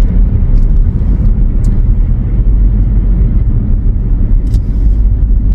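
Car driving, a steady low rumble of road and engine noise heard from inside the cabin.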